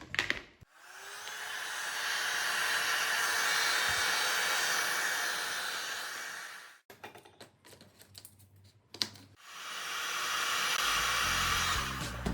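A small electric motor-driven tool run twice, a longer run of about six seconds and a shorter one of about three, each spinning up over a second or so into a steady rushing whir.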